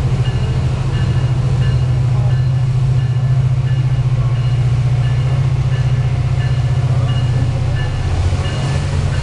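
Metrolink MP36PH3-C diesel passenger locomotive running steadily with a loud, deep throbbing drone. A high ding repeats about twice a second behind it.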